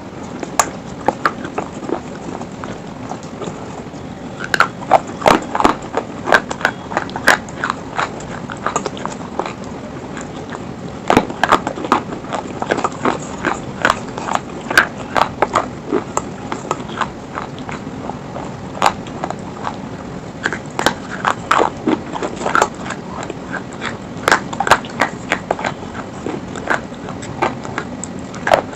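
Close-miked biting and chewing of slate stone pieces: sharp, irregular crunches that come in clusters, mouthful after mouthful.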